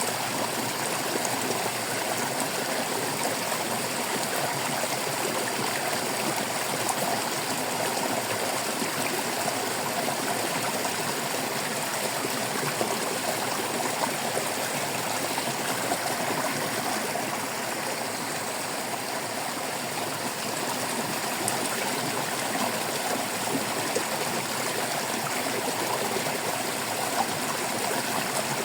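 Stream water flowing and babbling steadily over rocks, a continuous even rush.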